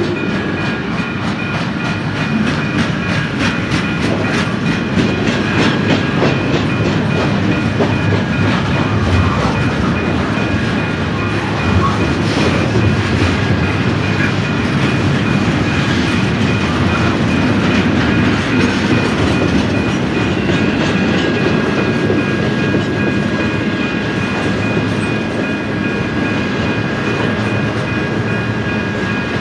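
Freight train cars of an intermodal train rolling past, wheels clicking rhythmically over rail joints with a steady rumble and a thin, steady high-pitched ring over it.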